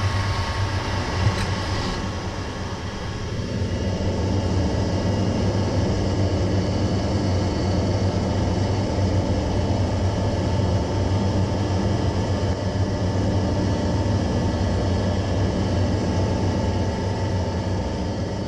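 A steady mechanical hum with a few constant tones over a low drone, stepping up a little a few seconds in after a faint click and then running evenly.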